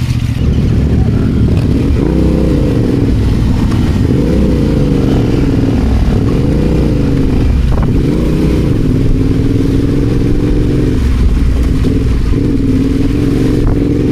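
Adventure motorcycle engine running under load, its pitch rising and falling again and again as the throttle is opened and closed.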